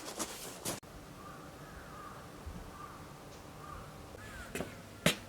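Crows cawing repeatedly, a series of short arched calls. Near the end come two sharp knocks.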